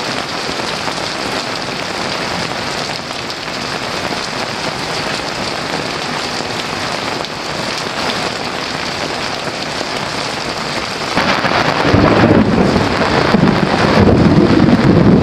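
Heavy rain falling steadily; about eleven seconds in, a long roll of thunder starts and rumbles loudly to the end.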